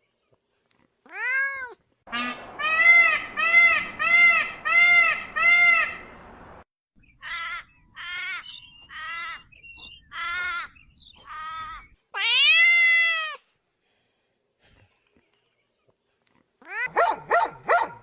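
Cat meowing over and over: a single call, then a run of six evenly spaced meows, several shorter ones and one long drawn-out meow. Near the end comes a quick cluster of short calls.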